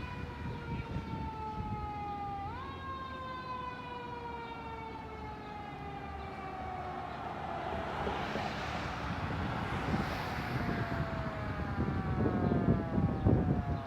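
Fire truck siren that jumps up sharply in pitch, then winds slowly down over several seconds. Engine and road rumble rise and grow loudest near the end.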